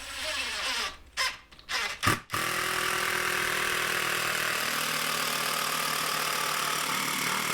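Power screwdriver driving a screw down through a 2x4 stud: a few short blips, then one steady run of about five seconds as the screw pulls the stud down against the shims, stopping near the end.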